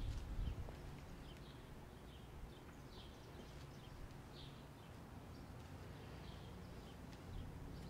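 Small birds chirping faintly and repeatedly in short high calls over a low, steady outdoor rumble.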